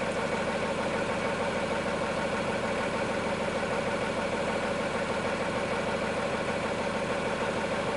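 Engine idling steadily, an even drone with a constant hum.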